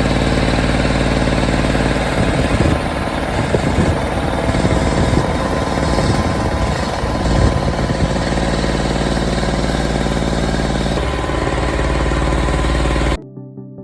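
Yamaha ET950 generator's small two-stroke, forced air-cooled engine running, its note wavering unevenly for a few seconds partway through before it steadies again. It cuts off suddenly near the end.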